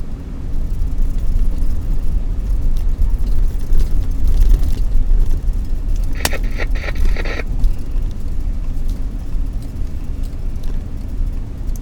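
Car driving on the road, heard from inside: a steady low rumble of road and engine noise. About six seconds in there is a sharp click followed by a brief hiss lasting about a second.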